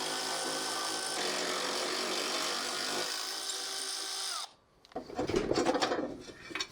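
A handheld power tool's motor running steadily with a whirring tone that shifts pitch a few times, then stops about four and a half seconds in. After a short pause comes irregular rustling and light clatter of handling.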